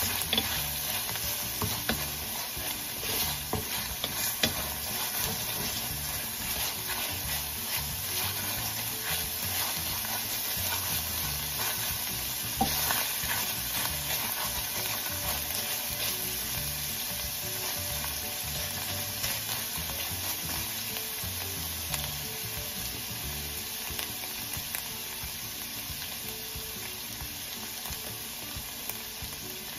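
Ground pork sizzling and frying in a stainless steel pan while a wooden spatula stirs and scrapes through it, with many small scraping clicks. It grows a little quieter toward the end.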